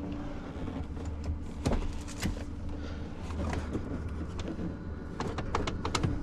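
A vehicle engine running steadily, with scattered sharp metallic clicks and knocks over it.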